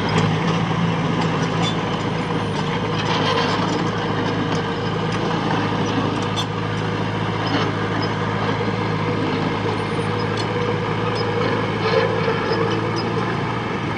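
Diesel engine of heavy machinery running steadily at a constant speed, with a few light clanks and knocks over it.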